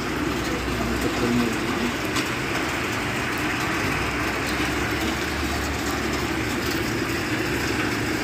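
Steady rain falling on pavement and standing water, a constant hiss with fine scattered patter and a low rumble underneath.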